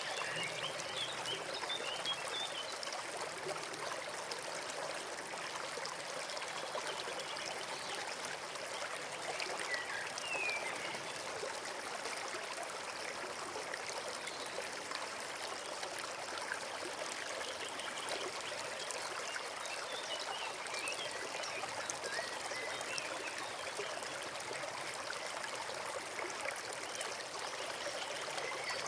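Forest brook flowing and trickling steadily, with a few faint, short bird calls now and then.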